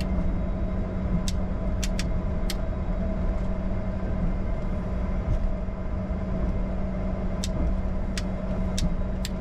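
Steady cockpit hum and rumble of a Bombardier Challenger 605 taxiing with its General Electric CF34 turbofans at idle. A few short sharp clicks sound, several in the first seconds and more near the end.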